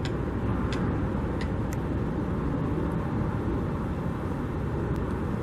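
Steady outdoor background rumble with no distinct source, with a few faint ticks.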